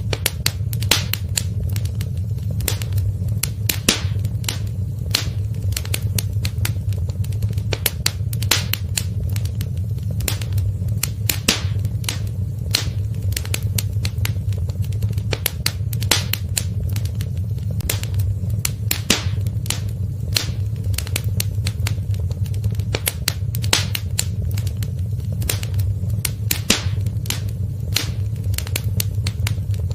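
Wood fire crackling in a fireplace: many sharp, irregular pops and snaps, several a second, over a steady low rumble of the burning fire.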